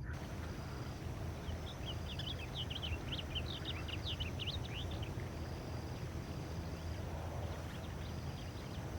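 A bird's rapid twittering chatter of many short, high notes for a few seconds, over a steady low rumble in the background.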